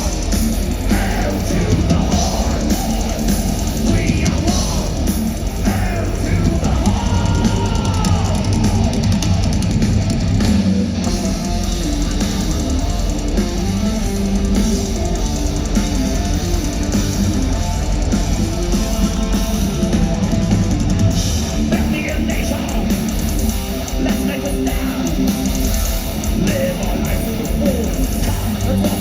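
Thrash metal band playing live at full volume: heavily distorted electric guitars over a pounding drum kit, without a break.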